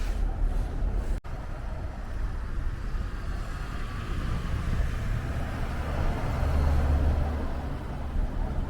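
Road traffic: a motor vehicle's low rumble, swelling as it passes about two thirds of the way through, with a brief cut in the sound about a second in.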